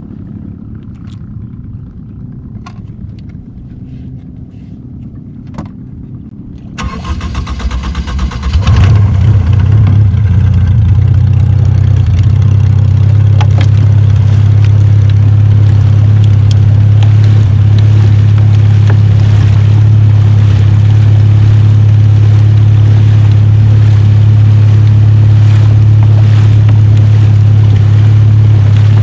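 Fishing boat's engine: a low rumble with a few light knocks for the first several seconds, then about seven seconds in it picks up and by about nine seconds runs loud and steady.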